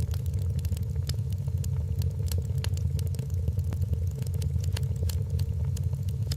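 Wood fire crackling in a fireplace, with irregular sharp pops and snaps several times a second over a steady low rumble.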